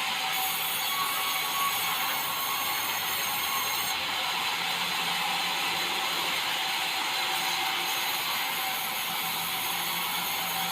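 Sawmill saw cutting through white meranti timber, a steady, unbroken cutting noise.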